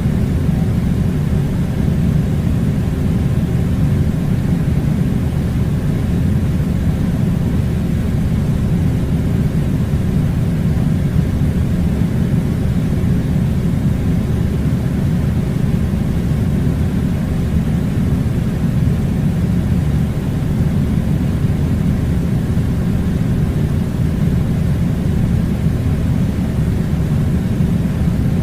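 Air conditioner running: a loud, steady low rumble of blowing air that does not change.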